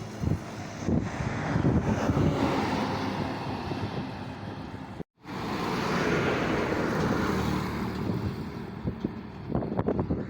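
Road vehicle noise: truck and traffic engines running with a steady rumble, swelling as one passes. It drops out for an instant about halfway through at an edit cut.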